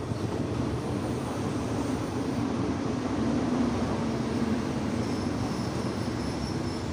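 Diesel locomotive hauling a passenger train past at low speed: a steady engine drone with the rumble of the coaches, loudest about midway. About five seconds in, a thin high squeal from the train's wheels sets in.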